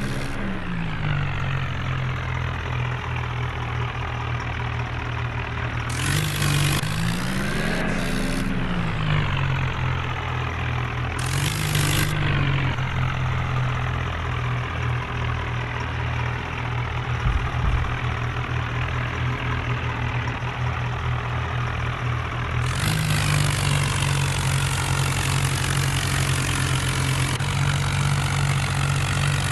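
Tractor diesel engine running steadily, revved up and back down a couple of times, then held at a higher speed for the last quarter.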